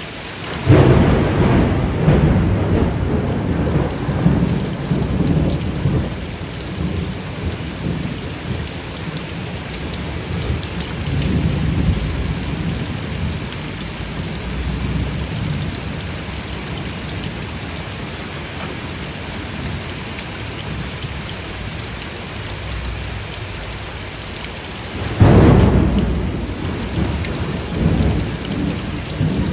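Steady heavy rain with thunder: a sudden thunderclap about a second in that rumbles away over several seconds, a softer rumble around the middle, and another loud clap and rumble near the end.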